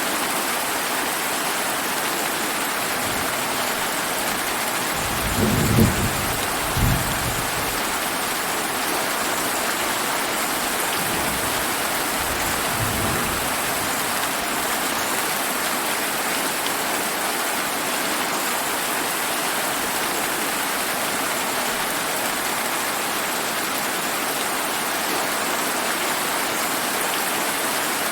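Steady summer rain falling, with a short low rumble of thunder about five to seven seconds in and a fainter rumble a few seconds later.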